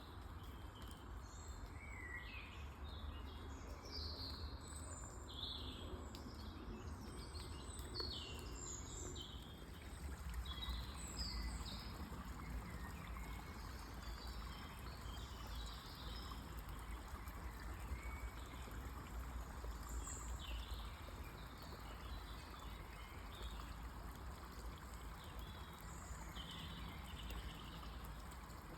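Wild songbirds singing and calling throughout, many short chirps and trills, over a steady trickle of running water.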